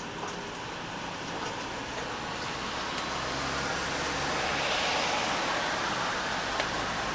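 Steady rain falling, with scattered drips ticking. A vehicle passes on the wet road, its noise swelling to a peak about five seconds in and then easing off.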